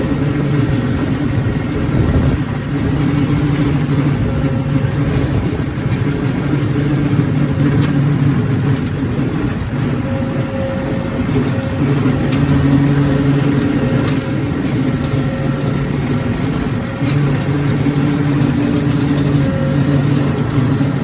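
John Deere tractor's diesel engine running under load, driving a PTO-powered rotary cutter (brush hog) through light brush. The engine hum swells and fades every few seconds over a constant mechanical rumble.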